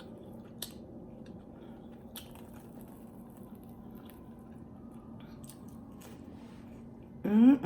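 Quiet close-miked chewing with faint, scattered mouth clicks, then near the end a short hummed "mm" that rises and falls.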